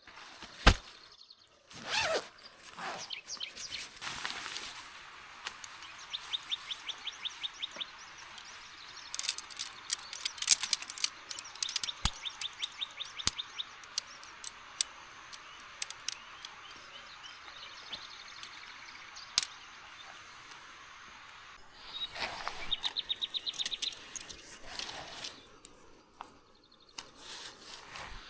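A small songbird singing rapid trilled phrases twice, with scattered sharp clicks and brief rustling over a steady outdoor background hiss.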